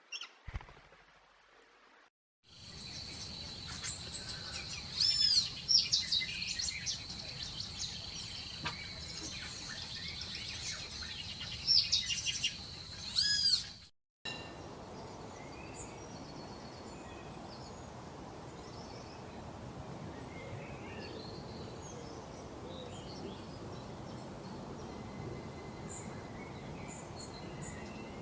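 Wild birds singing: several loud whistled phrases that sweep up and down over a steady high note, which cut off abruptly about halfway through. A quieter, hissing natural background with scattered distant chirps follows.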